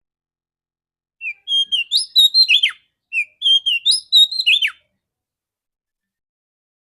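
Female oriental magpie-robin (kacer) calling: the same clear, whistled phrase of short notes twice in a row, each ending in a sharp downward slur.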